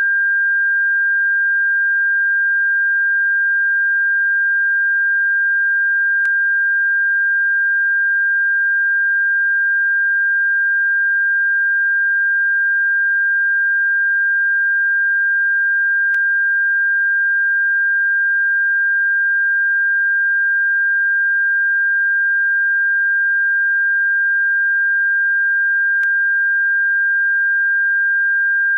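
Electronic bird-repellent tone: a single steady high-pitched pure tone held at one pitch, with three faint clicks about ten seconds apart.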